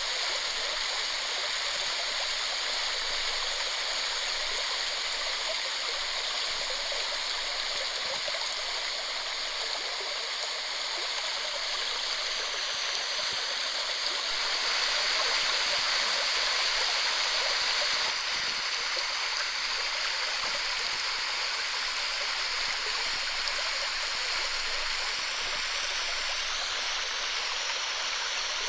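Waterfall: water falling and rushing steadily, a little louder for a few seconds about halfway through.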